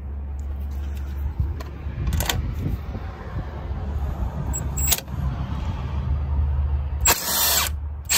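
Milwaukee M12 cordless impact driver with a deep 10 mm socket running in short bursts, backing out the screws of the intercooler pipe's hose clamps; the longest burst comes about seven seconds in.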